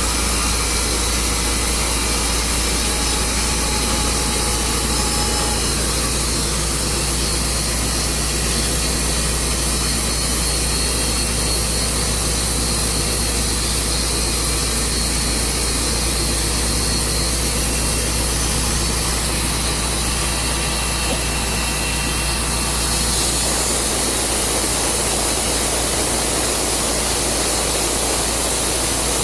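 Portable sawmill running steadily: an engine hum with a constant hiss over it. About 23 seconds in, the hum drops back and a broader rushing hiss takes over.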